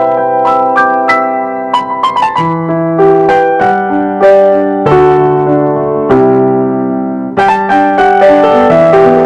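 Piano music: a melody of struck notes over sustained chords, changing about every half second.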